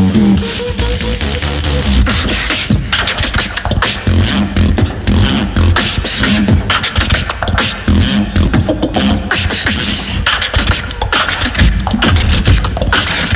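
Tag-team human beatboxing through stage microphones: a fast, dense beat of mouth-made kick drums, snares and hi-hats over a heavy bass line.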